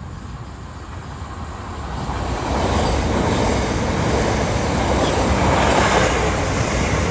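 A pair of Class 375 Electrostar electric multiple units passing through the station at speed without stopping. The wheels-on-rail rush grows over the first two seconds or so, then holds loud and steady as the train goes by.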